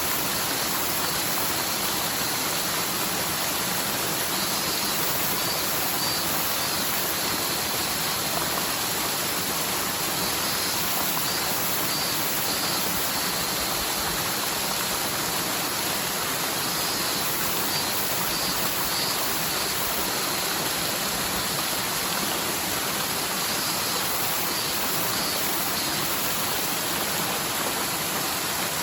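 Rain-swollen forest stream running down the mountainside after a typhoon: a steady, unbroken rush of water. Faint high chirps come in short groups every few seconds.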